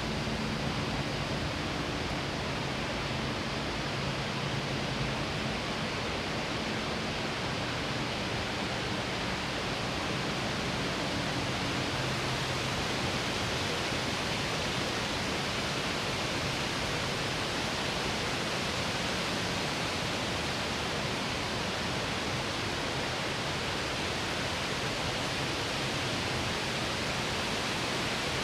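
Steady rushing of flowing water, like a waterfall or fast stream, an even hiss with no breaks. A faint low hum sits under it for about the first twelve seconds.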